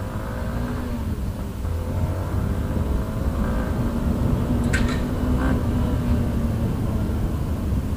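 Yamaha Sniper 150's single-cylinder engine pulling as the bike accelerates, its revs rising, with wind rumble on the helmet microphone. There are a couple of brief sharp clicks about five seconds in.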